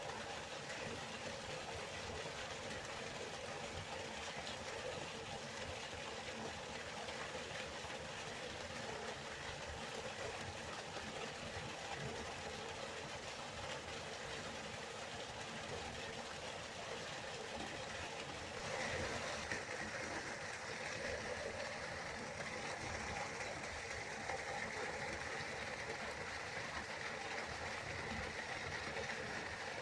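River water flowing and rushing steadily. About two-thirds of the way through, the rush turns slightly louder and brighter.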